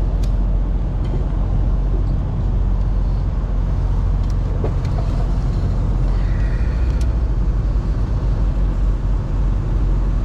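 A vehicle engine idling steadily with a low, even rumble, and a few faint clicks.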